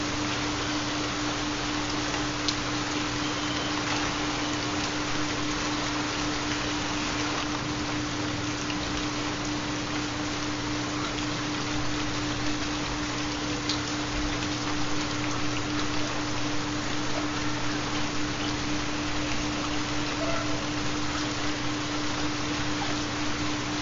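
Steady rain falling, with faint scattered drop ticks. A constant low tone runs beneath it: the carrier of a 4 Hz theta binaural beat.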